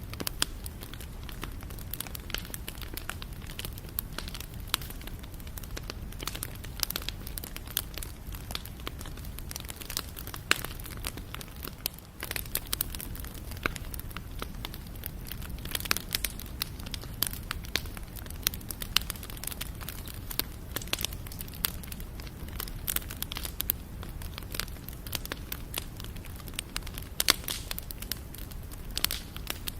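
Campfire burning: wood crackling and popping continuously over a low rumble, with a few sharper pops.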